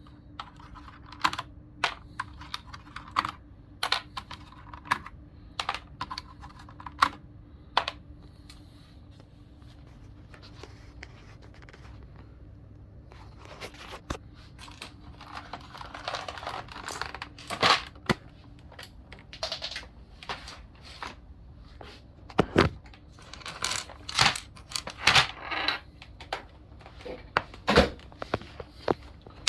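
Sharp plastic clicks and rattles from the keycaps and keys of a Logitech G710+ mechanical keyboard being handled during cleaning, with stretches of rough rubbing or scraping in the second half. A faint steady hum runs underneath.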